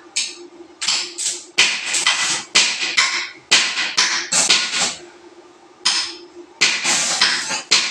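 Hammer blows in irregular runs, roughly two to four strikes a second, with a pause about five seconds in; a faint steady hum sits under the gaps.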